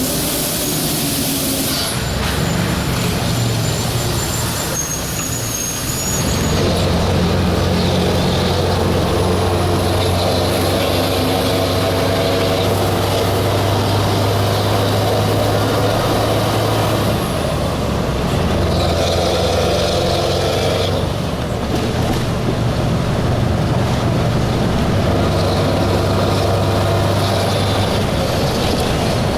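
Scania 4-series V8 truck engine running steadily, getting louder about six seconds in, with a short hiss of air at the start.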